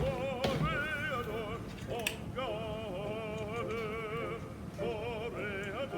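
Background music: an operatic singing voice holding long notes with wide vibrato. A few sharp clicks sound near the start and about two seconds in.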